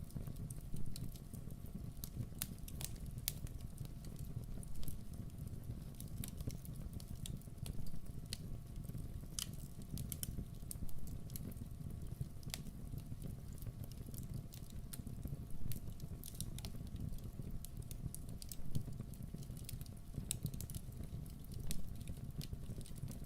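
Campfire burning: irregular sharp crackles and pops of wood over a low, steady rumble.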